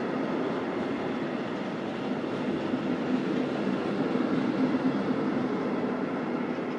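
Freight train of tank wagons rolling past: a steady rumble of steel wheels on the rails.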